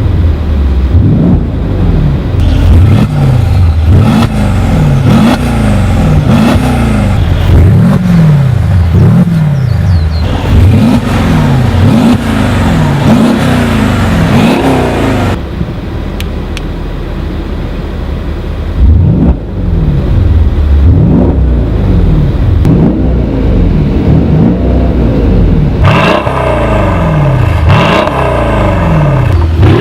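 Mercedes-AMG GLE63's twin-turbo V8 with an Armytrix valved exhaust being revved over and over, its pitch rising and falling about once a second. The revving eases off for a few seconds past the middle and then starts again.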